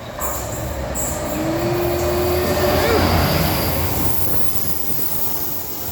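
British Rail Class 66 diesel-electric locomotive, with its two-stroke V12 diesel engine, passing close by at a station platform. The rumble builds to its loudest about three seconds in, with a steady tone over it that bends near the peak, then eases as the locomotive goes by.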